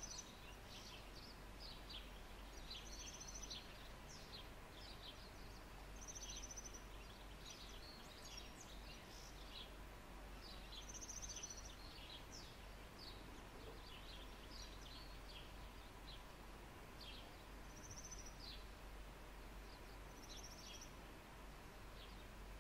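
Faint small-bird chirping: many short, high chirps throughout, with a few longer whistled notes every few seconds, over a steady low rumble.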